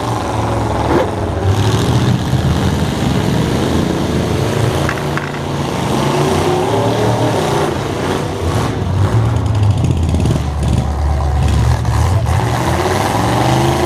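Demolition derby stock trucks' engines running and revving, with an engine revving up near the end.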